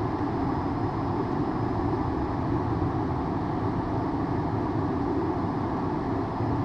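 Steady cockpit noise of a Hawker 800XP business jet in flight on approach: an even rush of airflow and engine sound.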